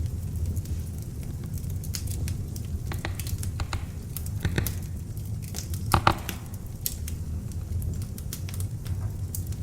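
Beech-wood log fire in an open fireplace crackling: a steady low rumble of flame under scattered sharp pops and snaps, the loudest about six seconds in.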